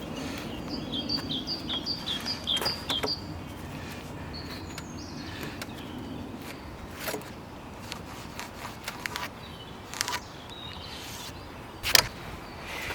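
A songbird repeating a quick two-note chirp about eight times, followed by a few separate sharp knocks from a mallet driving a chisel into green oak, the loudest near the end.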